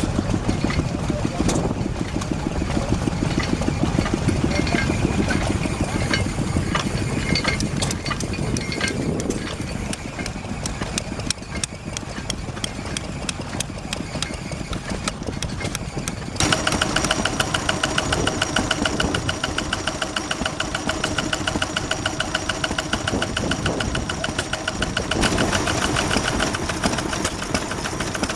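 Vintage stationary engines running with a steady, even beat. The sound changes abruptly about halfway through to a different engine with a faster, brighter rhythm.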